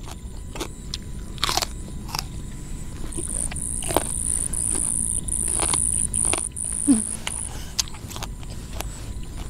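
Crunchy biting and chewing of fresh raw vegetables close to the microphone. A high, steady insect shrill joins in about three seconds in and stops about two seconds before the end.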